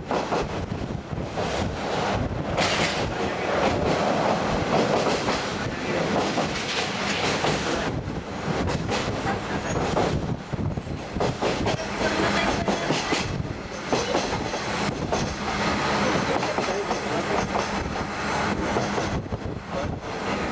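KiHa 48 diesel railcar of the Kazekko trolley train running along the line, heard from on board: a steady rush of wheel and rail noise with a low hum and scattered knocks and clatter.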